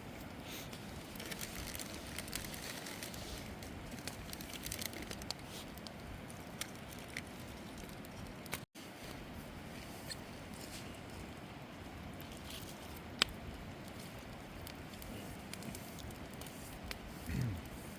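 Wood campfire crackling: a steady hiss with scattered small pops and ticks. The sound drops out for a moment about halfway through, and a short low falling sound comes near the end.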